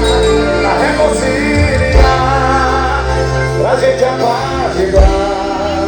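Live band music played loud over a sound system, a held, wavering sung melody over low drum thumps.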